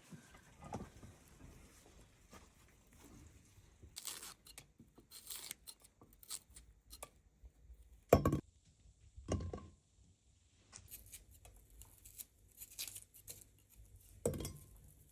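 Scattered light handling noises, clicks and rustles, with three louder knocks about eight, nine and a half and fourteen and a half seconds in.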